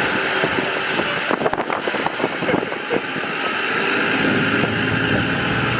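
Street traffic noise from a passing road vehicle, with a run of rattling knocks between about one and three seconds in.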